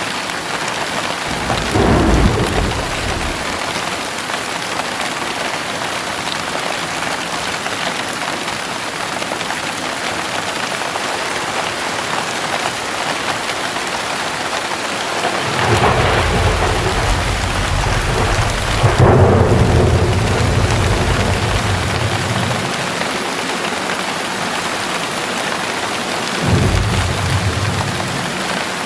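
Heavy rain falling steadily, with thunder rumbling three times: a short rumble about two seconds in, a long one past the middle that lasts several seconds, and a brief one near the end.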